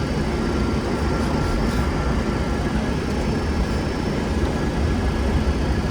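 Boeing 747SP flight deck with the engines idling: a steady low rumble of engine and airflow noise with faint steady high tones above it.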